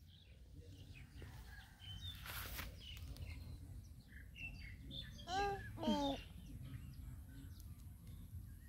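Faint bird chirps over quiet outdoor ambience, with two short, louder warbling calls about five and six seconds in.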